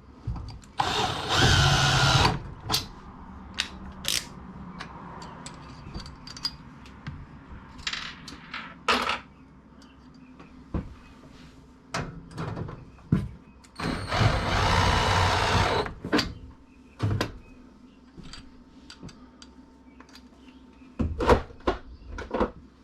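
Cordless drill driving screws: two runs of about a second and a half each, one near the start and one midway, with scattered knocks and clicks of handling and fitting between them.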